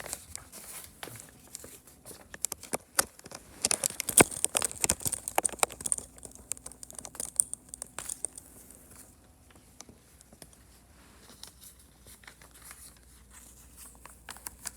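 Rustling and crinkling with many sharp clicks, busiest in the middle and thinning to faint rustles towards the end.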